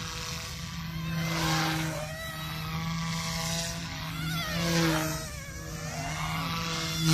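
Goosky S2 brushless RC helicopter in 3D flight: a steady motor and rotor hum, with a whine that rises and falls as the throttle and blade pitch change. Loud rotor whooshes come about a second and a half in, at three seconds and near five seconds, as the blades load up in the manoeuvres.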